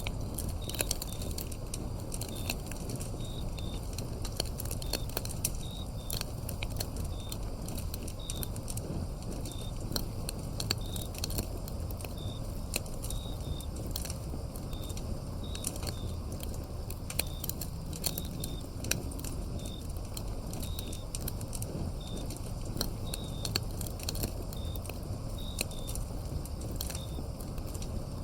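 Wood fire crackling, with frequent sharp pops and snaps over a low steady rumble of the flames. Crickets chirp throughout in short, high, repeated notes.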